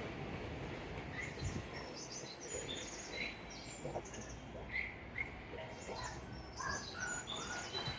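Small birds chirping: many short, high calls in quick succession over a low background rumble that dies away in the first second.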